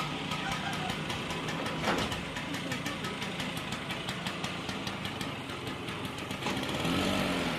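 Vintage Vespa scooter's two-stroke engine running, with a rapid, even ticking of its firing.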